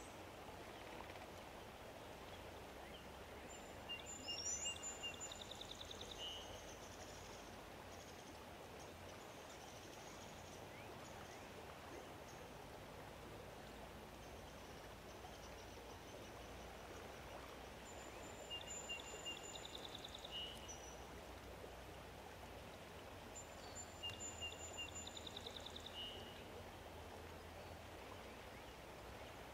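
A songbird singing the same short song three times, a few high clear notes followed by a quick trill, over a faint steady rush of outdoor background noise.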